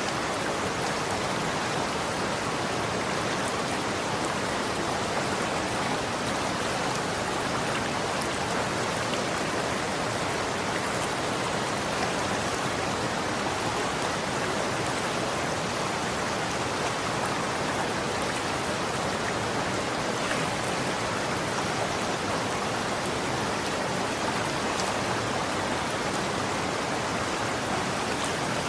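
Running water flowing steadily: an even, unbroken rushing hiss.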